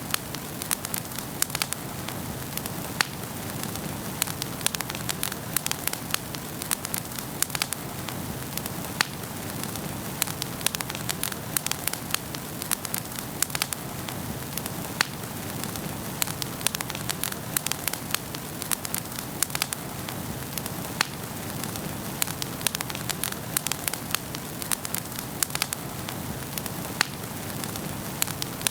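Wood fire burning in a fireplace, with a steady soft rush of flame and frequent sharp crackles and pops from the burning logs.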